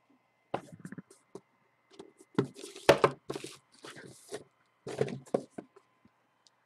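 Hands handling and opening a cardboard trading-card box and its packaging: an irregular run of knocks, scrapes and tearing sounds, busiest around the middle.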